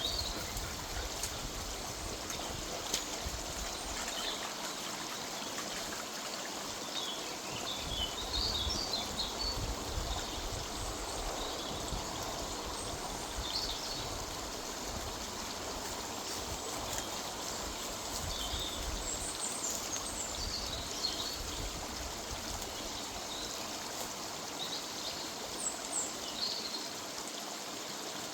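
Small river running over stones, a steady rush and trickle of water, with songbirds chirping in short phrases now and then.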